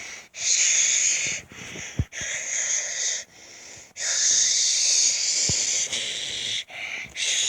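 Breathy hissing sounds in repeated stretches, the longest nearly three seconds, separated by short pauses, with a few faint low thuds.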